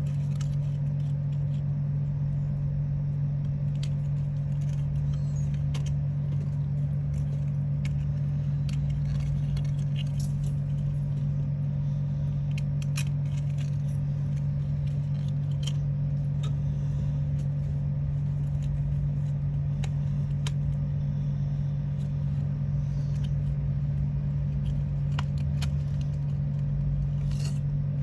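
A steady low hum, unchanging throughout, with scattered faint clicks and light taps over it.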